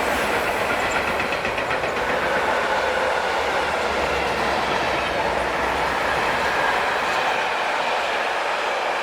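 A train running past on the track: steady, loud noise of wheels on rails.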